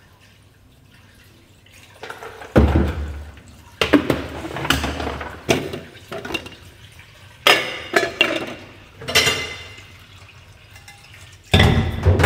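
Kitchen clatter: dishes, pots and lids being handled, a run of separate clinks and knocks, some with dull thumps, starting about two seconds in.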